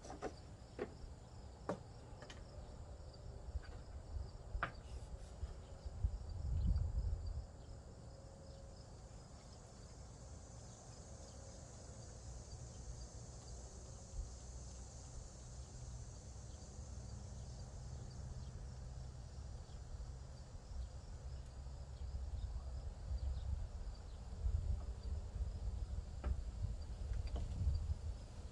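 High, steady insect chirring in the background, with a few sharp clicks in the first few seconds and low rumbling bumps, the loudest about six seconds in.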